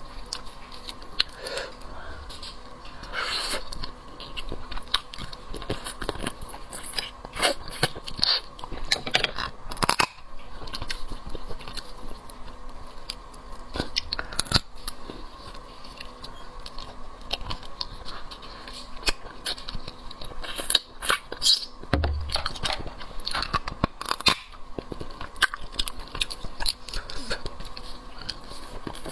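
Close-up eating sounds: irregular cracks and crunches of shell being bitten, with wet chewing between them, as a shellfish leg is eaten.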